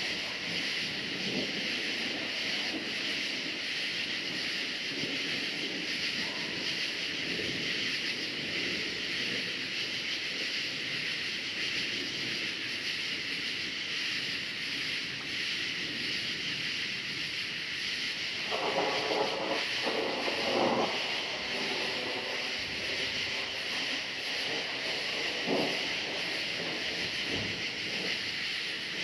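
Steady high chorus of crickets, with a fluctuating low rumble of distant thunder underneath. About two-thirds of the way in, a brief louder sound with a pitched ring rises over them for a couple of seconds.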